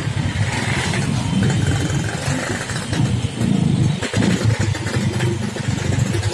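Road traffic with motorcycle engines running close by, their pitch rising and falling as they pull away and pass.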